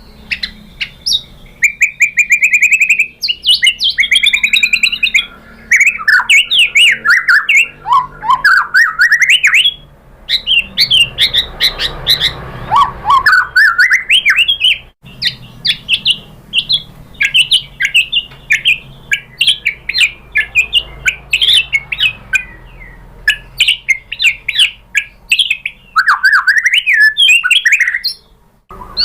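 White-rumped shama singing a long, varied song of clear whistles, sweeping notes and rapid chattered runs, with brief pauses between phrases.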